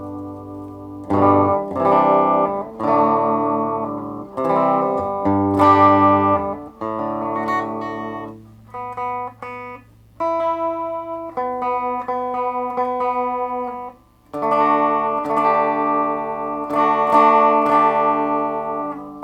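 Electric guitar played through a Positive Grid Reactor 50 combo amp on its 1-watt setting, in a clean tone with reverb: strummed chords, then single picked notes from about eight seconds in, then chords again in the last few seconds.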